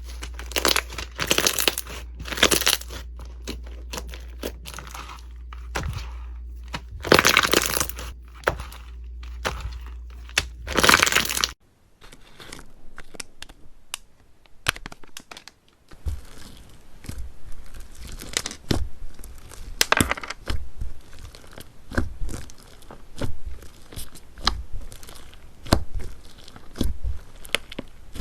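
Slime being squeezed and stretched by hand, crackling and crinkling in bursts over a low hum. About a third of the way through it cuts to another batch of slime, this one making quick, sharp pops and clicks.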